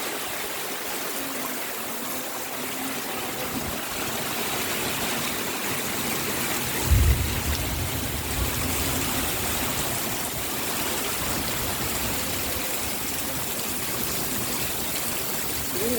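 Heavy rain falling steadily, an even hiss throughout. About halfway through there is one short low thump.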